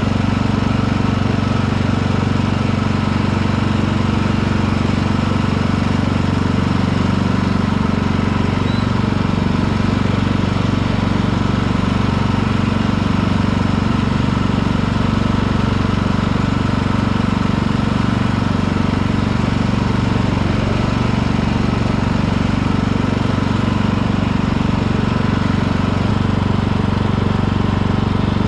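Riding lawn tractor's engine running steadily as the tractor drives along, mowing blades not engaged.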